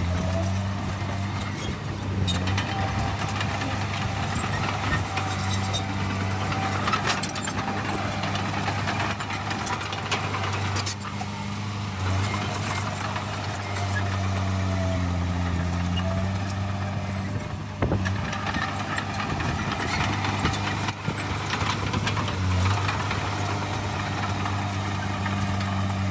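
Heavy diesel engine of earthmoving machinery running steadily, its pitch dipping and recovering a few times as it takes load, with a few metallic knocks.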